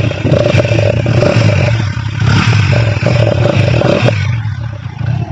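Hero Honda Splendor Plus motorcycle engine held on a slow, steady throttle for about four seconds, then easing off toward idle. It gives the sound the rider likens to a Yamaha RX 100, which he says comes only when the throttle is opened slowly.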